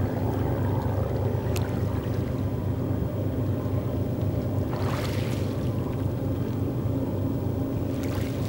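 Freight train heard from across the lake: a steady low rumble of the passing cars and distant diesel locomotives, with a short rustle about five seconds in.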